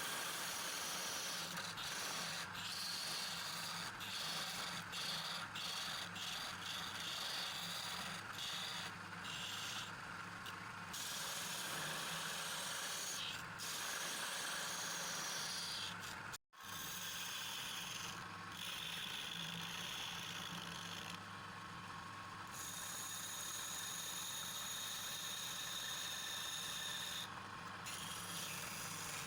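A motor-driven tool running steadily, with a continuous rubbing, scraping sound and a faint high steady whine. It drops out for an instant about halfway through.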